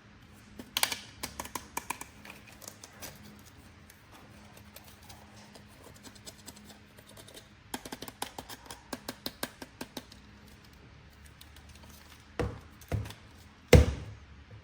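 Packaging being handled during an unboxing: two spells of rapid clicking and crinkling, then three knocks near the end, the last the loudest.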